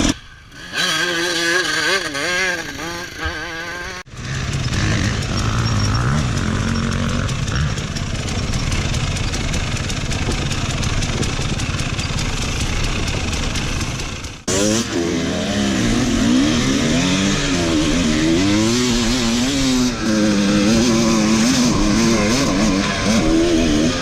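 Enduro dirt bike engines revving hard on a hill climb, the pitch surging up and down quickly as the throttle is worked. The sound breaks off suddenly twice and goes on with another bike.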